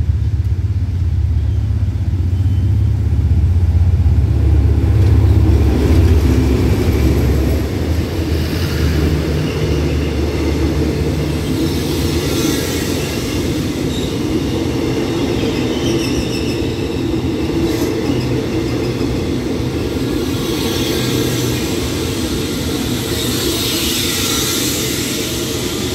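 Diesel-electric locomotive of an express passenger train passing close by, its engine rumble loudest about four to six seconds in. Then the steady rumble and clatter of the carriages rolling past as the train slows to stop, with a high squeal around twelve seconds and again near the end.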